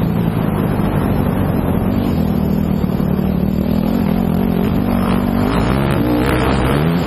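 Motocross bike engine running under throttle, its pitch rising and falling with the revs, changing more often over the last couple of seconds.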